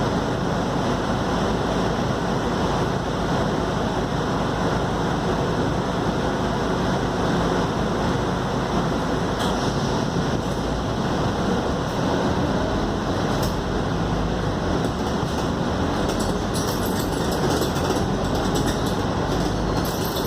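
Inside a Scania K280UD double-decker bus on the move: steady engine drone and road noise, with light rattling from the body and fittings that becomes more frequent near the end.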